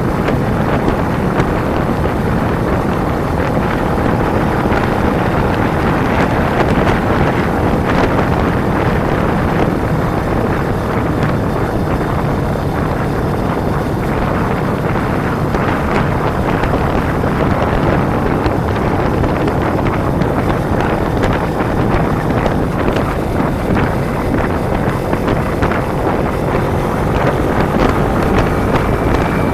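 Wind buffeting a motorcycle-mounted camera microphone at riding speed, steady and loud, with the Kawasaki Ninja 250's engine droning faintly underneath.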